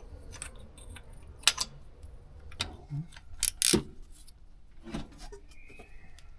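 A handful of sharp metallic clicks and clinks, about five spread over several seconds, over a low steady hum.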